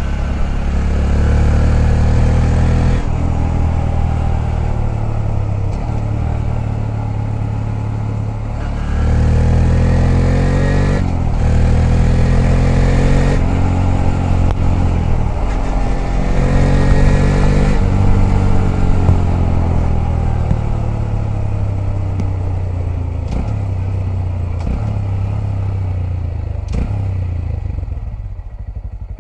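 Honda Grom's 125 cc single-cylinder four-stroke engine accelerating, the pitch climbing and breaking off at each gear change several times. It then slows and settles into a low steady run, fading near the end.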